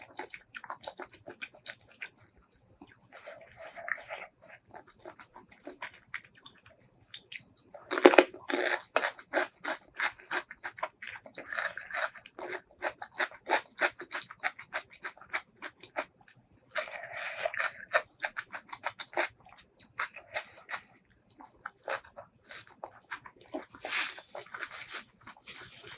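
Close-miked chewing and crunching of food, in bouts of rapid clicks with short pauses between mouthfuls, the longest and loudest bout about a third of the way in.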